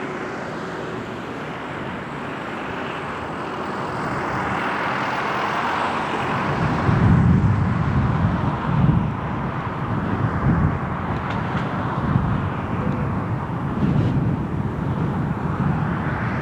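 Four Rolls-Royce Trent 900 turbofans of an Airbus A380 at takeoff power. A jet roar builds steadily, and from about seven seconds in it turns into a louder, low, crackling rumble that comes in uneven surges.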